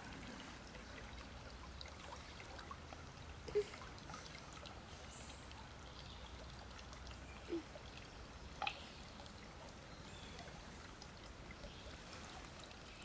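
Shallow creek water trickling steadily, with a few faint brief knocks or small splashes.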